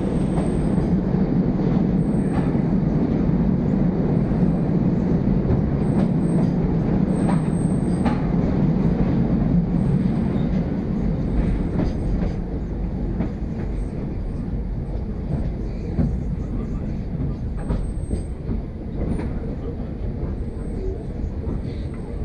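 Narrow-gauge train running, heard from inside a carriage: a steady rumble of the wheels on the track with scattered clicks and brief high squeals every second or two, easing off a little in the last several seconds.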